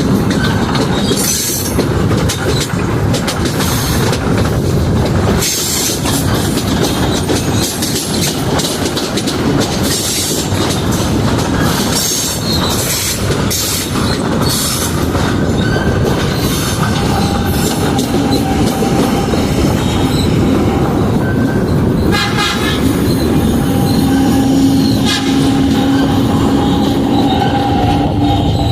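Passenger train pulling out of a station and running on: steady loud rumble with repeated clicks over the rails in the first half, then long steady squealing tones from about halfway through.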